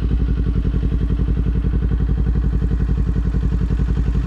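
Kawasaki Z400 parallel-twin motorcycle engine running steadily at a constant low speed, an even rapid pulsing with no revving.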